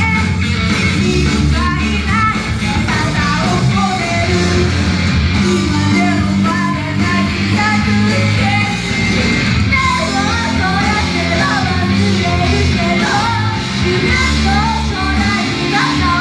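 Loud live performance of a rock-style idol pop song: singing over electric guitar and a heavy, steady band backing.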